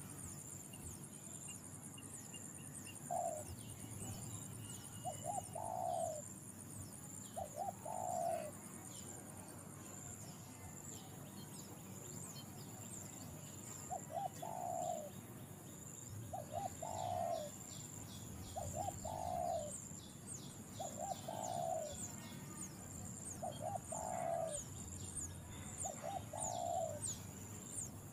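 A bird giving short, low, two- or three-part hooting calls about every two seconds, with a pause in the middle. Thin high chirps and a steady high insect drone run underneath.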